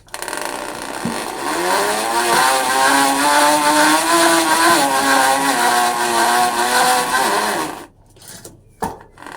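Bicycle spokes flapping against a used plastic drink cup fixed to the frame, making a motorcycle-like buzz. The pitch rises as the wheel speeds up over the first few seconds, holds fairly steady with small wavers, and the sound stops about eight seconds in.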